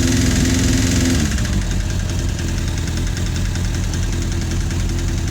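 Suzuki GSF 650's inline-four engine running, its revs dropping about a second in and settling to idle, with a fast, regular clicking from the engine. The clicking persists after a valve adjustment; the owner notes one camshaft lobe slightly more worn than the others but is unsure whether it is the cause.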